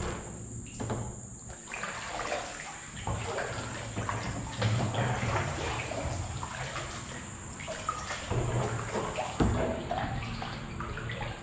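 Kayak paddle strokes: water splashing and dripping as the blades dip, with a couple of sharp knocks near the end. A steady high insect trill runs underneath.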